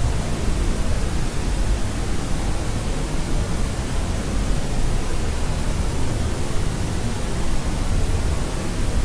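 Continuous white noise for sleep: an even, unchanging hiss, heavier in the low end than the highs.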